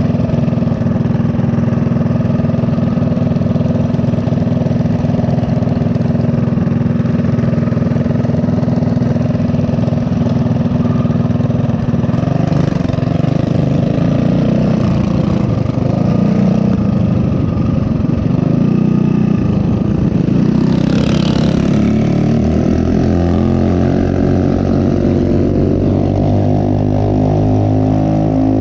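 Mini bike's small single-cylinder four-stroke engine running steadily while riding, with its note shifting in pitch near the end. A brief hiss comes through about 21 seconds in.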